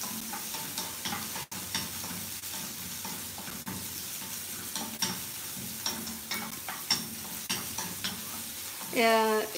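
Sliced onions and curry leaves sizzling in hot oil in a stainless steel kadai as they are stirred with a wooden spatula, with scattered light clicks. A woman's voice starts speaking near the end.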